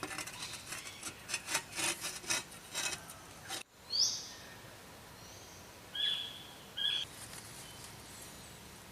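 A run of short rustling sounds, then after an abrupt break a bird calls: one sharp falling note, followed by two short, steady whistled notes about a second apart.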